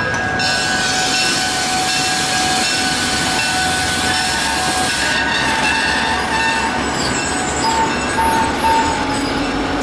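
Passenger train headed by a Thomas the Tank Engine replica locomotive rolling slowly past on the rails, with a hiss and steady high tones over the first half and short broken high tones in the second half.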